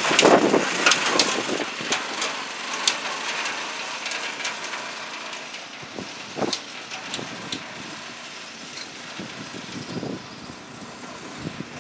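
Small Honda GX110 single-cylinder engine of a homemade mini dumper truck running and fading steadily as it moves away, with scattered sharp clicks and clanks.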